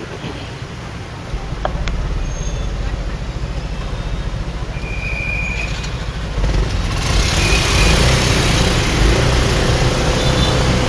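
Motorbike ride through city traffic: engine and road rumble with wind rushing over the microphone, getting louder about six and a half seconds in.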